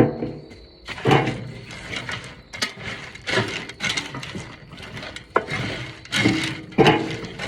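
A batch of dog food, kibble with rice and oatmeal moistened with water, being stirred and scraped around a container in repeated, uneven strokes.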